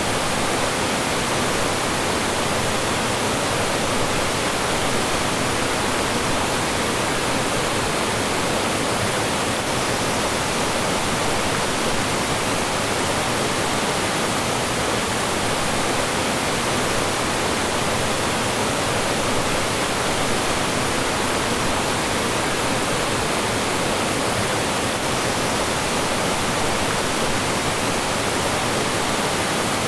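Mountain stream rushing over small falls: a steady, even wash of flowing and falling water.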